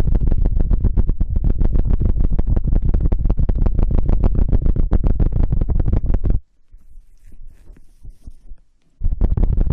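Rapid scratching and rubbing directly on an ASMR microphone, with a dense run of strokes and a heavy low rumble. It stops about six seconds in, leaving only faint rustling, and starts again near the end.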